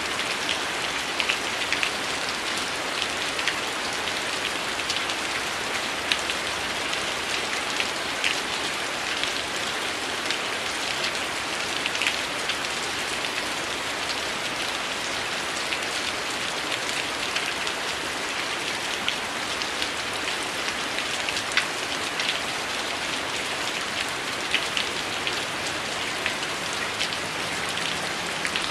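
Heavy rain falling steadily, mixed with a crackling wood fire: a constant rain hiss with scattered sharp pops and ticks at irregular intervals.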